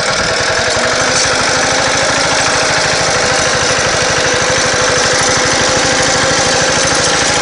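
Two-wheel tractor engine running steadily with a rapid, even firing beat.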